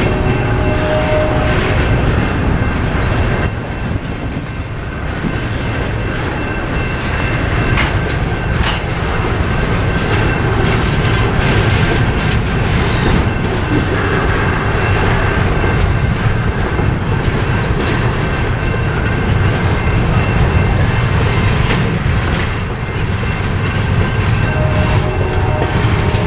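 Double-stack intermodal freight train rolling steadily past, its container well cars rumbling and its wheels clacking over the rail joints. Railroad crossing bells ring faintly underneath.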